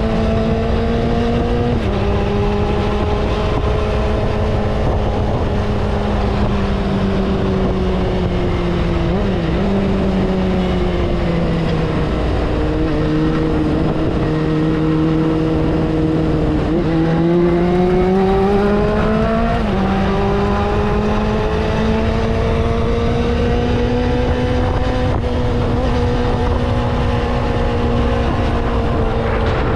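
Kawasaki motorcycle engine pulling under way, its pitch sinking slowly and climbing again as the road speed changes, with sudden pitch drops about 2 s in and near 20 s that sound like gear changes, over a steady low rumble of wind and road noise.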